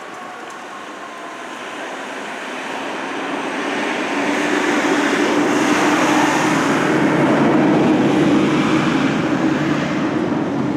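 A train passing close by, its rumble and steady hum building over the first five seconds, then easing slightly near the end.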